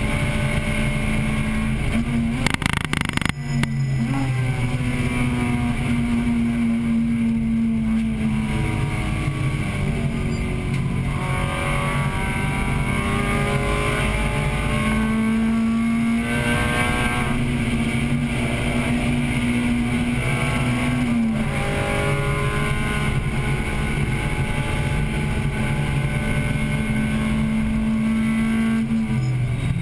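1998 Acura Integra Type-R's high-revving 1.8-litre VTEC four-cylinder under hard racing load, heard from inside the cabin. Engine pitch holds steady on the straights and steps and glides with gear changes and lifts, with a brief break and a few clicks about three seconds in.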